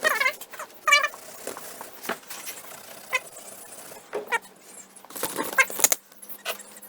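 Steel parts of a dismantled lathe chuck clinking and knocking together as they are handled, with two ringing metallic clinks in the first second and a cluster of sharper knocks about five seconds in.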